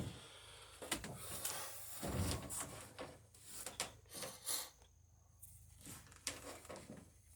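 Faint handling noises from wooden boatbuilding work: scattered light knocks, clicks and short scrapes of tools against wood, thinning out after about five seconds.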